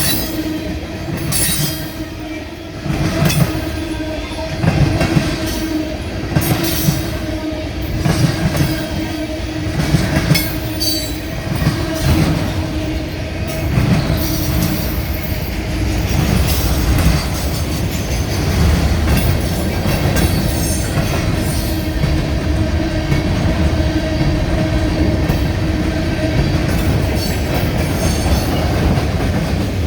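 CSX freight train rolling past, its wheels clacking over the rail joints with a steady squeal from the wheels and a deep rumble that builds in the second half.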